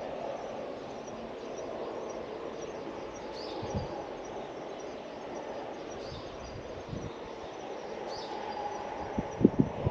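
Outdoor ambience: a steady distant rumble with a short high chirp repeating every second or two, and a few brief low thumps near the end.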